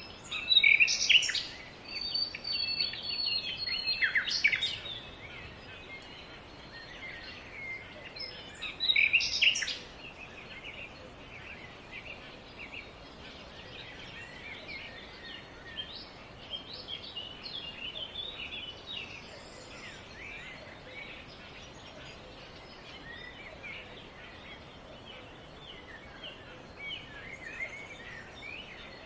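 Songbirds singing and chirping over a steady outdoor hiss: a few loud, close calls about a second in, around four seconds and around nine seconds, one of them a short held whistle, then a softer run of chirps from several birds.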